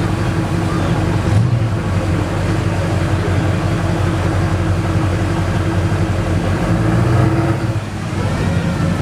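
A car engine running steadily close by, with a low, even hum that swells slightly twice and dips briefly near the end.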